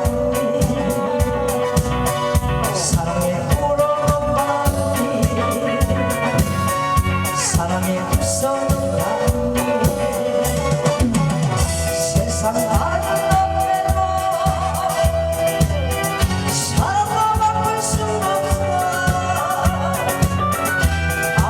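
A song performed over a backing track: a singer's voice over a steady drum beat and accompaniment.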